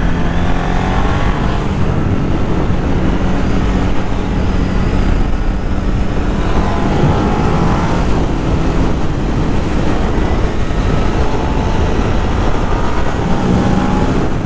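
Ducati Multistrada 1200 S's V-twin engine being ridden through bends, its revs rising and falling several times as the rider accelerates and backs off. The seized exhaust valve has been removed, so the engine pulls freely instead of stalling at a rev limit.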